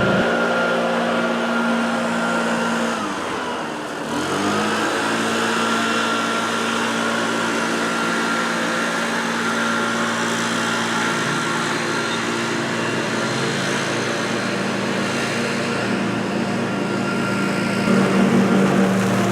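Small petrol engine of lawn-care equipment running, with a steady high whine above it; its speed drops briefly about three seconds in and then picks back up.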